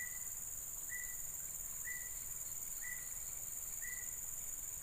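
A dense, steady high-pitched drone of insects such as crickets or cicadas, with a short call at one pitch repeating about once a second throughout.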